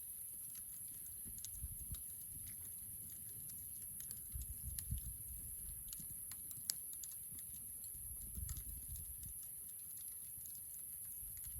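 Wood campfire crackling with irregular small snaps and one sharper pop about two-thirds of the way through, over a few soft low rumbles.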